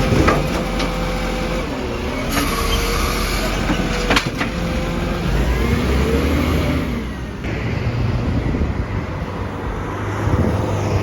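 Garbage truck running, its engine pitch rising and falling, with two sharp metallic clunks, the louder about four seconds in.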